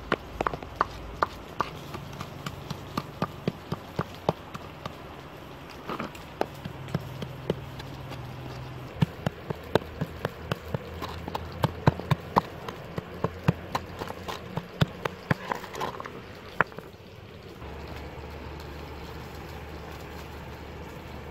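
Irregular sharp clicks and knocks, at times several a second, over a steady background; they stop about 16 seconds in, leaving a steady low hum.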